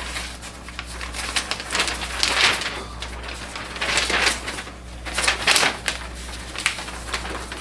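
A large folded paper sheet being unfolded and handled: irregular crackling and rustling swishes of paper, a poster-size printed setup guide.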